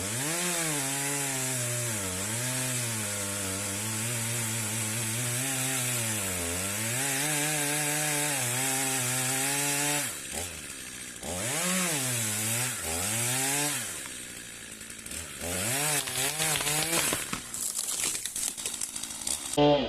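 Chainsaw cutting into a tree trunk, its engine note sagging and recovering again and again under load. About halfway through it drops back and is revved up and down in short swells. The saw is being run with its chain going tight for lack of oil, the bar's oil hole clogged with sawdust.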